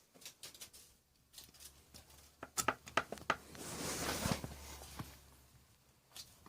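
Handling noises from work on a motorcycle carburettor: a run of light clicks and knocks, then a rustling swell about four seconds in.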